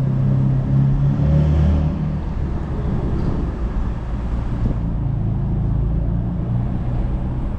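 BMW F82 M4's twin-turbo inline-six engine and exhaust running steadily, the note dropping deeper about a second in.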